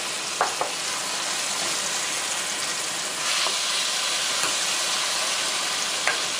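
Cubed pork sizzling in hot oil in a frying pan as it is stirred with a spatula, which knocks against the pan a few times, twice near the start and once near the end. The sizzle grows a little louder about halfway through.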